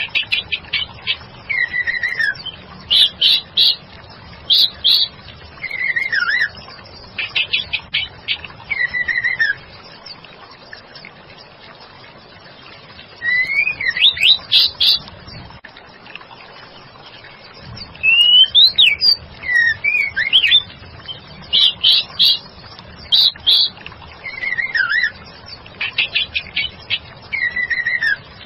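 Female white-rumped shama calling: short downward-gliding whistles, each followed by a quick run of sharp chattering notes, repeated in bursts with a pause of a few seconds near the middle.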